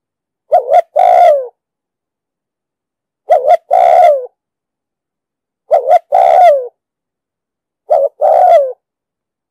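Spotted dove cooing: four calls roughly every two and a half seconds, each a quick double note followed by a longer coo that falls in pitch.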